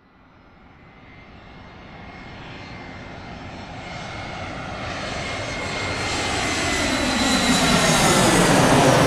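Airplane approaching overhead: its engine noise starts out of silence and grows steadily louder, with a steady high whine, reaching its loudest at the end.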